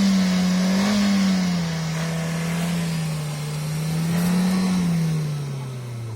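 Maruti Suzuki Ignis engine revved hard and held high, wavering slightly, then falling away near the end, with a loud hiss beneath it, as the car works through deep snow.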